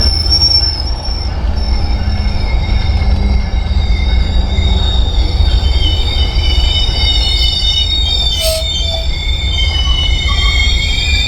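Train rolling past with its wheels squealing on the rails: several high squeal tones that shift in pitch over a steady low rumble, with a brief scrape about eight seconds in.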